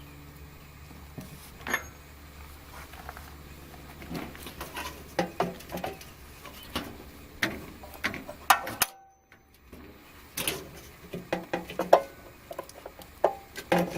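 Irregular metal clinks and taps of hands and a tool fitting and tightening the anode rod drain plug into an RV water heater. The sound cuts out briefly about nine seconds in.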